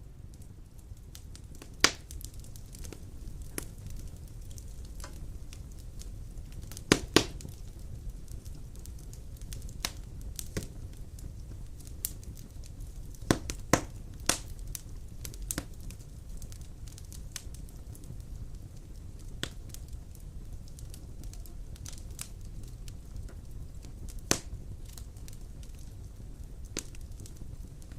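Wood fire of large logs in a stone fireplace, crackling over a steady low rumble, with scattered sharp pops. The loudest are a close pair about seven seconds in, with others around two, thirteen to fourteen, and twenty-four seconds in.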